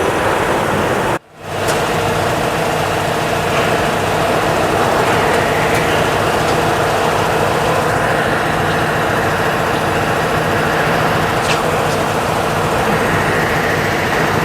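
Steady running of an engine or motor-driven machine, a continuous hum with several steady low tones. It cuts out briefly about a second in.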